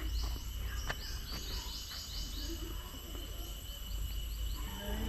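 Outdoor forest ambience: runs of quick, high chirps over a steady thin high tone and a constant low rumble.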